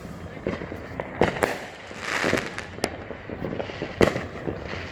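Consumer fireworks going off, with repeated sharp bangs and pops over a crackling background. The loudest bang comes about four seconds in.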